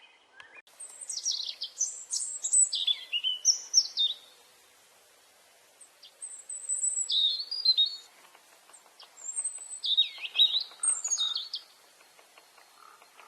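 Songbird singing: phrases of high, quick chirps and sliding notes, in three bouts with short quiet pauses between.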